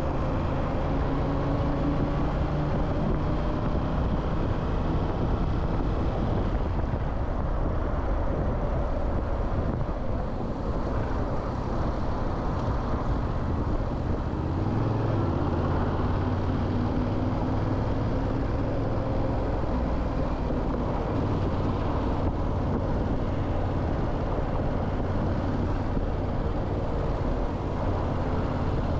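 Motorcycle engine running while riding, over steady wind and road noise. The engine note rises and falls as the throttle changes, shifting lower about halfway through.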